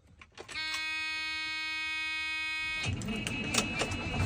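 A steady electronic warning buzzer sounds for about two seconds and then cuts off. Clicks and a growing engine rumble follow.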